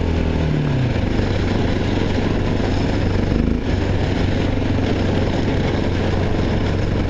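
Honda XR650L's air-cooled single-cylinder four-stroke engine running steadily under way, with wind noise over it. The engine note falls just after the start and dips briefly about three and a half seconds in.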